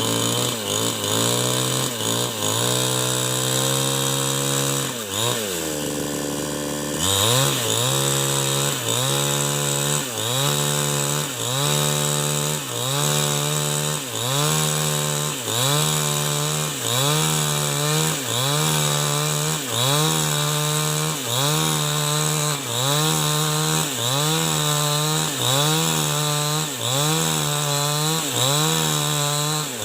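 New West 788 chainsaw cutting a log lengthwise into rafter beams under load. The engine pitch dips and recovers about once a second as the saw is worked through the cut, with a longer sag about six seconds in.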